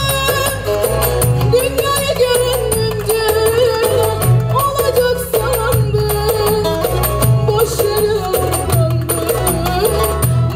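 Live Turkish folk song: a female singer's wavering melody over a steady beat and bass line.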